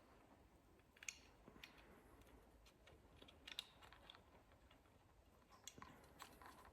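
Near silence with a few faint clicks and taps of small metal fittings being handled as a motorcycle auxiliary light's mounting bolt is fitted by hand.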